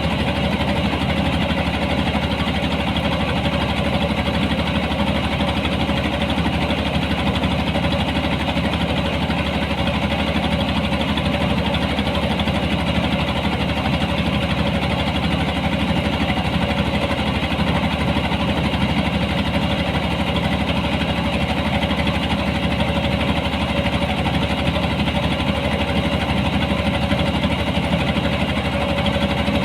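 Engine of a harvesting machine running steadily at constant speed, a continuous mechanical drone with no change in pitch.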